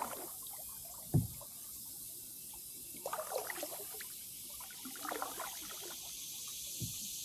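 Kayak paddle strokes: the blade dipping and pulling through the water with trickling drips, a couple of strokes a few seconds apart. A single short low thump about a second in.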